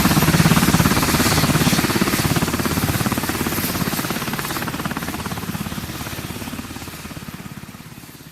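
Helicopter sound effect: fast, even rotor-blade chop over engine noise, fading steadily away.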